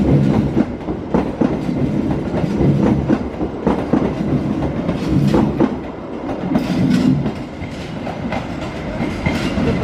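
Passenger train of stainless-steel coaches running past at speed. Its wheels clatter over the rail joints and points with repeated sharp knocks over a steady low rumble.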